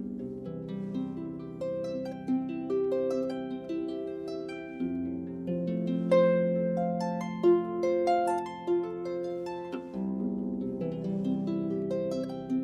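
Solo harp playing a flowing melody of plucked notes over sustained, ringing low notes, with a fresh phrase beginning about ten seconds in.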